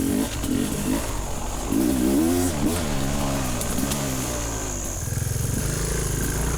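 Honda XR200 dirt bike's engine revving up and down at low speed, then running at a steady pitch from about five seconds in.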